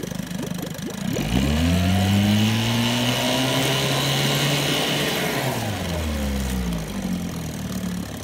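1956 Johnson 5.5 hp two-stroke outboard motor, freshly serviced and running on a test wheel, idling, then revved up about a second in. It holds the higher speed for a few seconds, then is throttled back down to idle.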